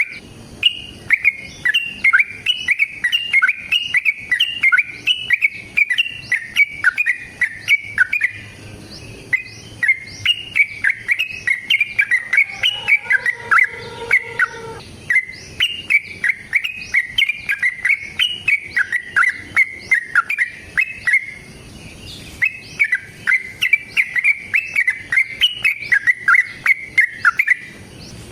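Yellow-vented bulbul (trucukan) singing long, fast runs of chirping notes, the 'ropel panjang' fighting song used as a lure to make other bulbuls answer, with two short pauses between runs.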